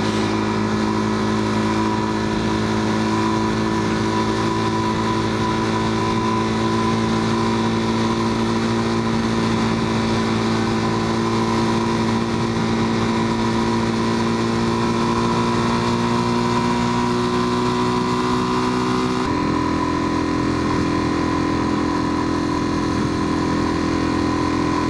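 Motorcycle engine running steadily while under way, its pitch creeping slowly upward. About three quarters of the way through it changes abruptly to a different steady note.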